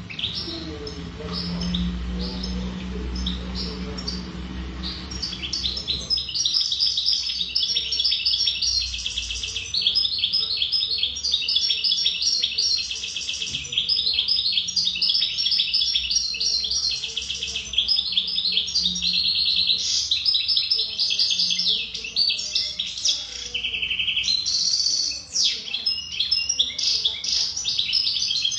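European goldfinch singing a fast, unbroken twittering song of rapid high chirps and trills. The song starts about six seconds in, after a low rumble.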